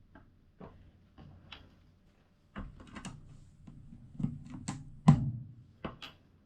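LEGO plastic pieces being handled and pressed together: a string of small, sharp clicks and knocks, the loudest a little after five seconds.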